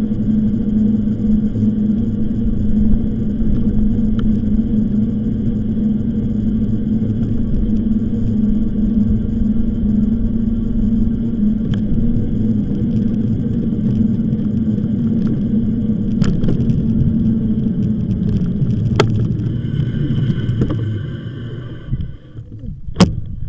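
E-bike riding noise: a steady motor hum over rumble from tyres and wind on the microphone, easing off near the end, with a couple of sharp clicks.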